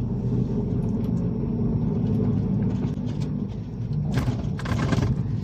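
Truck engine running with a steady low rumble, and a brief burst of noise about four seconds in.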